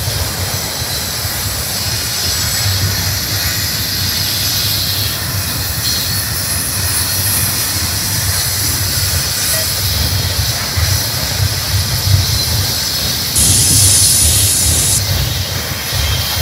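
Double-stack intermodal well cars rolling past on the rails: a steady low rumble of wheels on track with a hiss over it, and a brief louder high hiss about thirteen seconds in.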